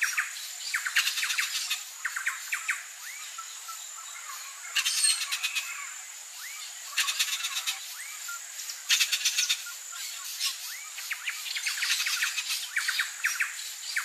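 Bird calls: clusters of rapid repeated chirps coming every second or two, with short rising whistles in between, over a steady high-pitched tone.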